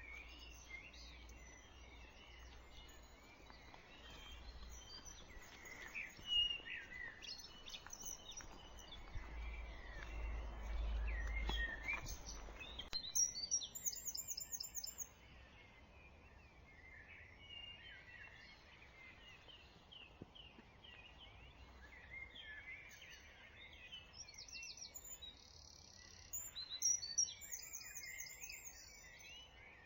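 Dawn chorus: several songbirds singing at once in overlapping chirps, warbled phrases and a few fast trills. A low rumble swells a third of the way through and then fades.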